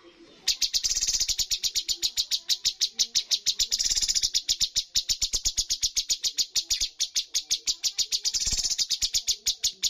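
Cucak cungkok bird singing a rapid, evenly spaced trill of sharp high notes, about nine a second. It starts after a brief pause and stops abruptly at the end.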